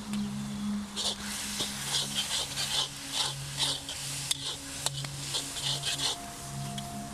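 A spatula scraping and stirring food frying in a karahi, in a run of strokes at about two a second, easing off near the middle.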